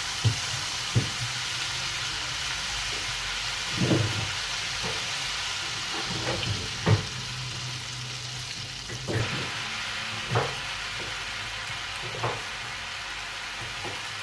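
Tempura batter deep-frying in hot oil into tempura flakes (tenkasu): a steady sizzle, with about eight short low knocks scattered through it.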